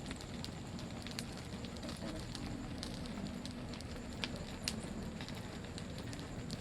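A campfire crackling: scattered sharp pops and snaps over a steady low rumble, with one louder pop a little past halfway.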